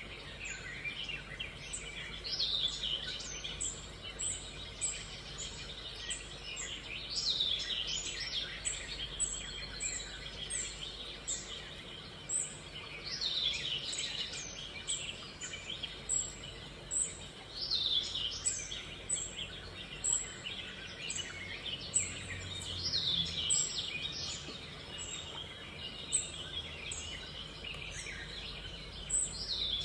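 Birds singing: a falling run of notes about every five seconds, with short high chirps repeating about twice a second throughout.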